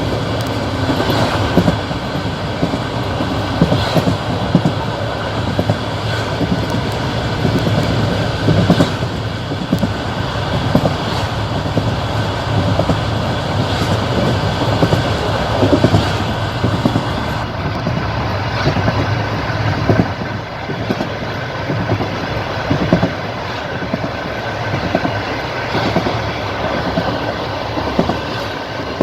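Passenger train running along the line: a steady rumble of the carriage, with the wheels knocking over rail joints in a repeated clickety-clack.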